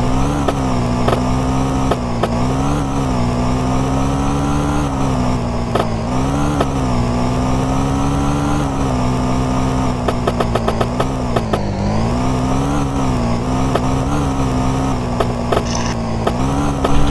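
Small moped engine running hard, its pitch rising and falling again and again as the throttle is worked, with scattered clicks and rattles.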